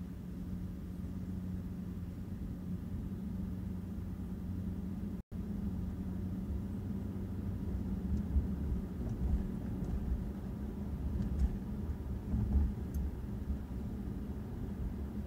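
A steady low engine drone with a constant hum, as from a running vehicle, with a few heavier low bumps in the second half. The sound cuts out for an instant about five seconds in.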